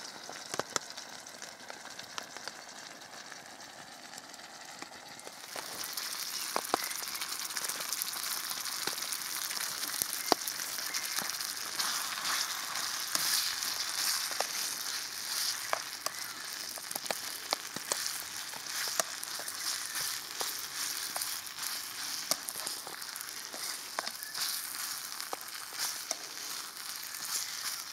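Food frying in a pan over a camp stove: a steady sizzle that starts up suddenly about five seconds in, with scattered sharp pops and spits.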